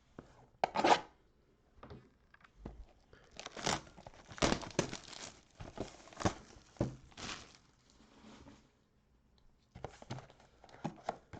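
Packaging of a football trading card mega box being torn open, with plastic wrapping crinkling and paper tearing in irregular bursts.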